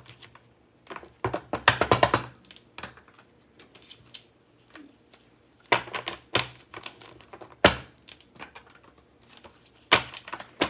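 Tarot cards being shuffled and laid down on a table: a quick run of card clicks about a second in, then a few single sharp taps, and another short flurry of clicks near the end.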